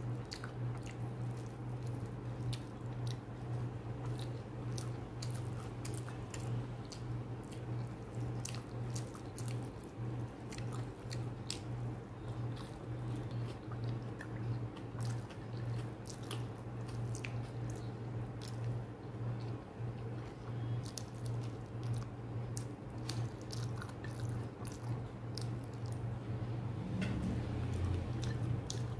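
A person eating rice and chicken curry by hand: close-up chewing with many small wet mouth clicks and smacks, over a steady low hum.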